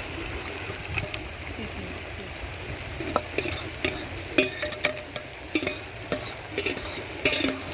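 A spoon stirring a pot of macaroni cooking down in coconut juice, with scrapes and clicks against the pot coming thick from about three seconds in, over a steady low background noise.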